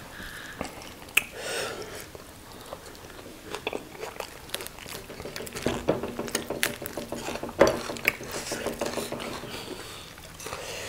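Close-up eating sounds of fried tilapia and banku eaten by hand: chewing and crunching, with many scattered sharp clicks and smacks.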